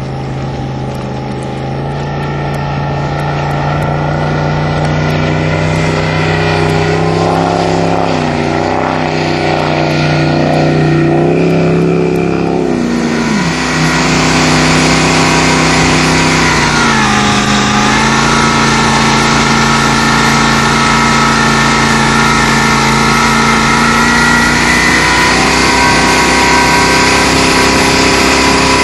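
Jet boat's supercharged 468 cubic inch Chevy big-block V8 running, its revs stepping up over the first half, dipping briefly twice around the middle, then holding higher and steady. A rush of noise comes in under the engine about halfway through.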